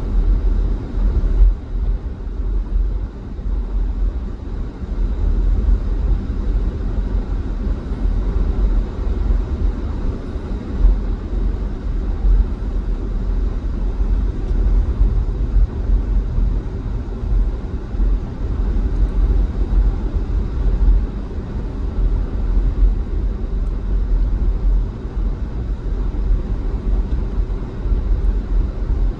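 A car driving at steady speed: a continuous low rumble of engine and tyre noise that holds steady, with no distinct knocks or changes.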